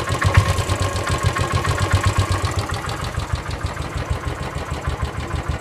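Royal Enfield Classic 500 EFI single-cylinder engine idling with an even, rapid beat and a knocking sound that the owner's friends say could be piston slap or abraded floating bushes.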